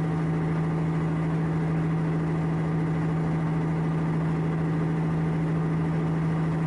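Ship's engine running at a constant speed: a steady, even hum with one strong low tone that does not change.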